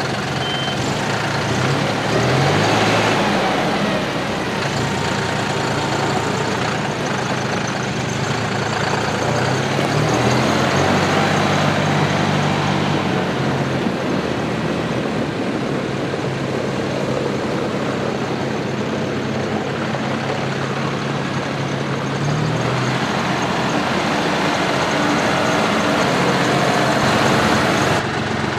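John Deere 5065E tractor's three-cylinder turbocharged diesel engine running just after start-up, its speed rising and falling several times.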